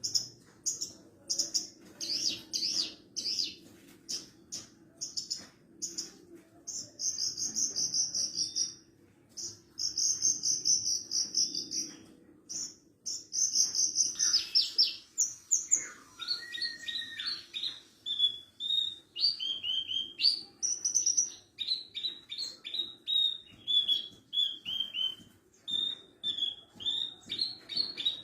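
Horsfield's bush lark (branjangan parva, Mirafra javanica parva) singing a continuous, varied song of rapid high chirps, buzzy trills and repeated short phrases. About halfway through it shifts to quicker, slightly lower notes.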